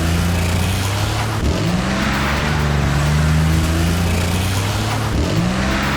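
Monster truck engines running in a race, a steady loud drone that twice dips briefly in pitch and comes back up.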